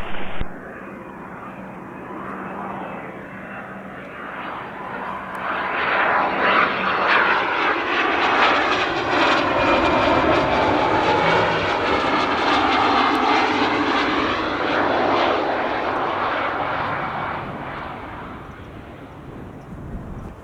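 A Cessna Citation CJ4 business jet's twin turbofan engines as it comes in to land and passes by. The jet sound swells over the first several seconds, stays loud through the middle with sweeping shifts in pitch, and fades near the end.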